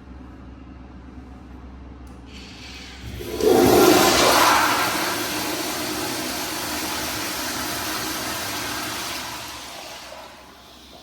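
American Standard Priolo rear-outlet toilet's flush valve flushing: a faint hiss, then a sudden loud rush of water about three seconds in, which runs steadily and fades out near the end.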